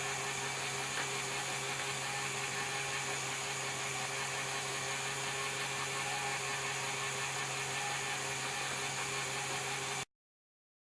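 Stratasys Objet30 Prime resin 3D printer running: a steady mechanical whir with a constant hum underneath. It cuts off suddenly near the end.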